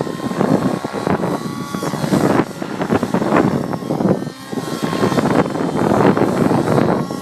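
Nitro-engined T-REX 700 radio-controlled helicopter flying, its engine and rotor whine shifting up and down in pitch, half buried under wind buffeting the microphone.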